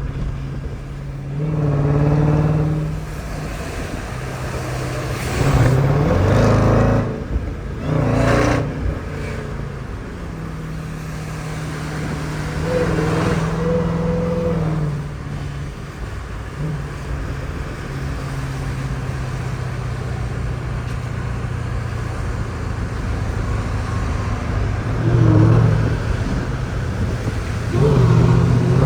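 Jeep Grand Cherokee Trackhawk's supercharged V8 running on the move, its engine note swelling under throttle several times and settling back between.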